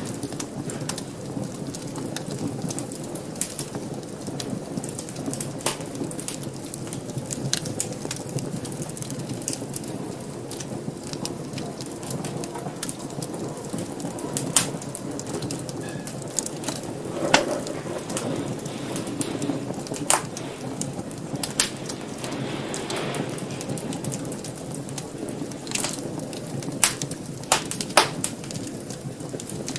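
Fire burning in a fireplace: a steady low rumble of flames with frequent sharp crackles and pops, a few louder snaps in the second half.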